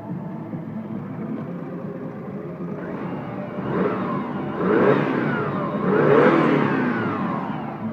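Subaru Forester's 2.0-litre EJ20 flat-four petrol engine idling, then revved twice, about four and six seconds in, the pitch rising and falling back toward idle each time.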